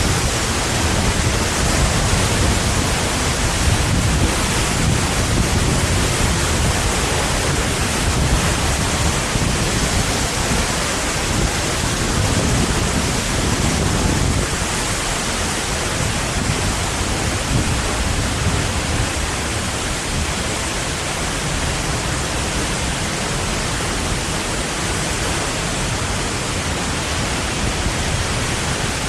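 Waterfall roaring up close: a loud, steady rush of falling water, with a deeper low rumble in the first half that eases after about fourteen seconds.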